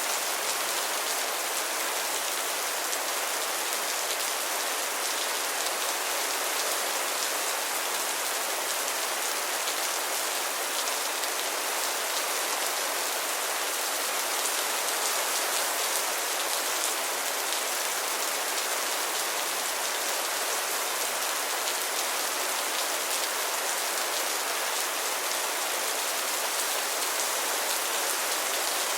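Heavy rain falling steadily on a surface, a dense even hiss with fine patter of drops and no thunder or change in strength.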